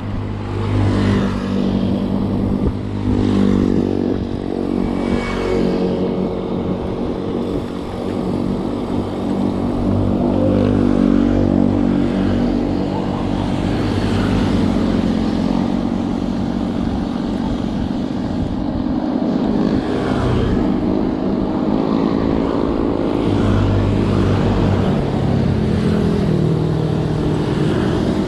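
A motor vehicle engine running steadily on the move, its pitch rising and falling slightly with speed.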